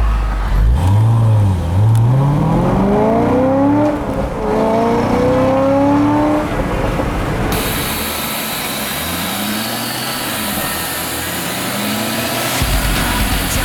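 Chevrolet C6 Corvette's LS2 V8 breathing through long-tube headers and a Corsa X-pipe and cat-back exhaust, revving repeatedly, its pitch climbing and falling several times. The engine is first heard at a low rumble, and the revs turn milder in the second half.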